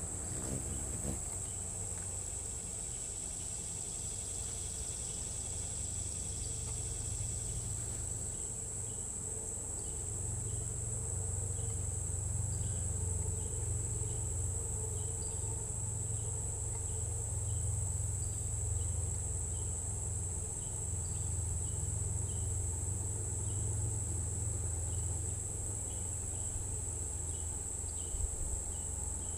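Steady high-pitched insect chorus, an unbroken shrill drone of crickets or similar insects, with short high chips scattered through it and a low rumble underneath.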